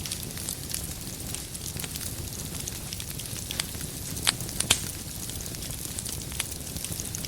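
Wood fire in a fireplace crackling: a steady low rumble of flame with scattered sharp pops from the burning logs, two louder pops close together a little after four seconds in.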